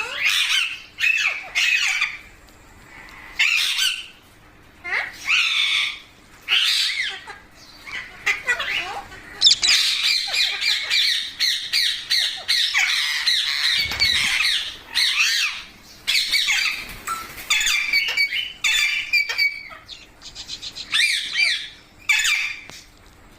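Pet green parrots squawking: short, sharp calls at first, then about ten seconds of continuous harsh chattering and screeching, then short calls again near the end.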